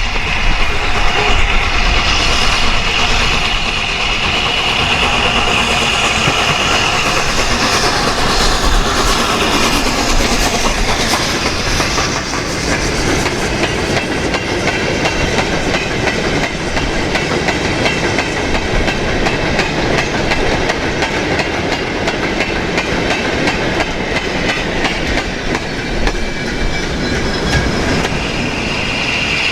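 A steam-hauled train running past, its wheels going over the rail joints in a continuous rattle.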